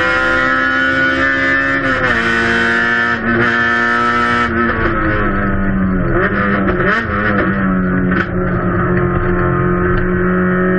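Race car's Honda K-series four-cylinder engine under load, shifting up twice in quick succession early on, each shift dropping the pitch. From about halfway it runs at lower, wavering revs.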